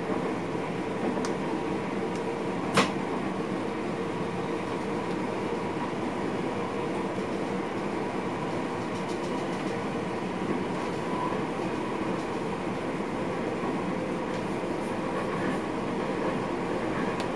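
Steady running noise of a passenger train heard from inside the driver's cab, with faint steady tones in the hum. A single sharp click comes about three seconds in.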